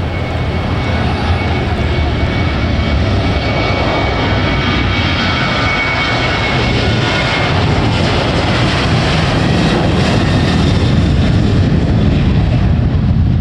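Airliner engines passing close by: a loud, steady roar with a thin high whine over it in the first half, swelling slightly toward the end.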